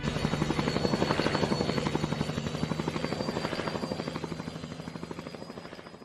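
Helicopter running, its rotor beating in a fast even pulse of about seven beats a second over a steady high turbine whine, slowly fading.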